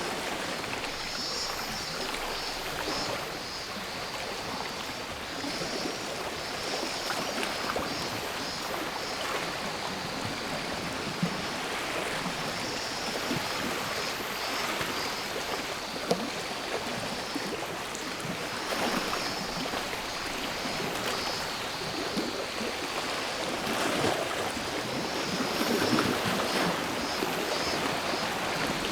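Sea waves washing onto the shore, swelling every few seconds, with cicadas buzzing high over them in an uneven, pulsing chorus.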